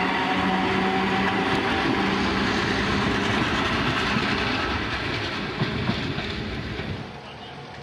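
Vintage metre-gauge electric train passing close by, its wheels rolling on the rails, with steady pitched tones held under the rolling noise. The sound drops away about seven seconds in.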